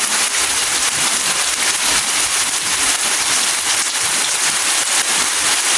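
Steady rain falling, a dense even hiss of many small drops striking surfaces.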